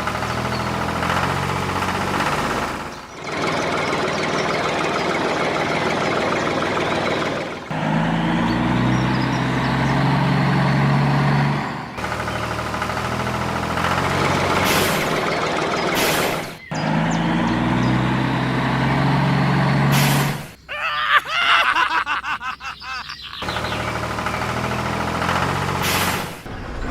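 Vehicle engine running steadily, in a string of short segments that cut off and start again every few seconds. A short, louder, uneven noise comes about two-thirds of the way through.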